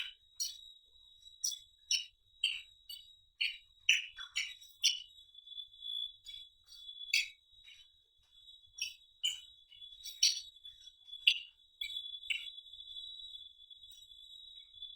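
Close-up eating sounds: irregular wet smacks and chewing clicks, about one or two a second, over a steady high-pitched whine.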